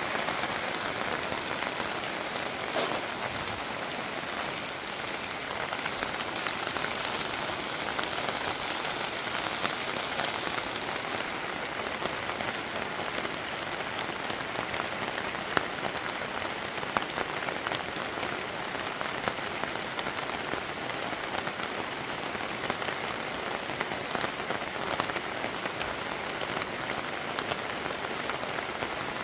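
Steady rain falling, with single drops ticking sharply now and then; the high hiss grows brighter for a few seconds from about six seconds in.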